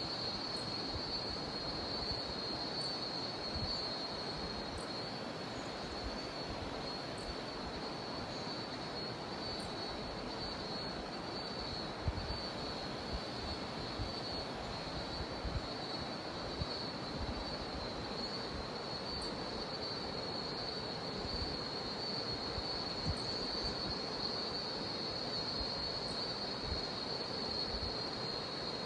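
Cicadas droning in one steady, high, unbroken tone over the continuous rush of a jungle river.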